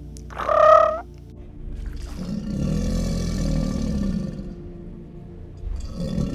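Animal sounds: one short, high, pitched call about half a second in, then a long, low, growling roar that fades and starts again near the end.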